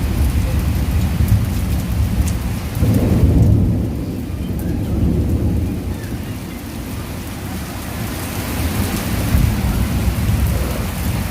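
Thunder rumbling over heavy, steady rain, the rumble swelling loudest about three seconds in and again near the end.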